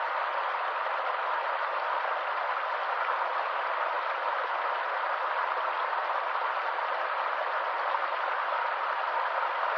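Stream water flowing steadily, an even rushing hiss with no change in level.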